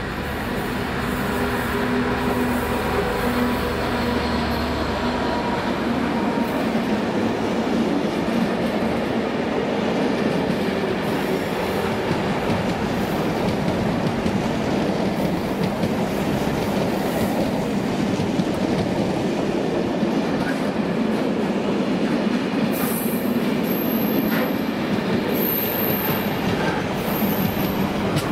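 Diesel-hauled freight train passing close by. The locomotive's engine hum is heard in the first few seconds, then a long, steady rumble and clatter of wagons rolling over the rails, with brief high-pitched wheel squeals near the end.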